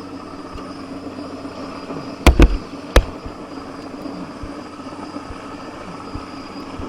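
Steady drone of a crane helicopter's engine and rotor, broken a little over two seconds in by three sharp, loud knocks: two close together, the third about half a second later.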